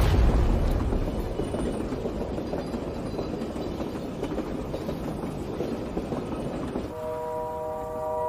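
Train running on the rails, a heavy low rumble that is loudest at the start. About seven seconds in it gives way to a musical drone of several held tones.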